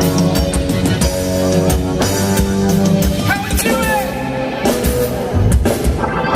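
Live rock band playing, with drum kit, bass and guitar, and a lead line bending in pitch midway.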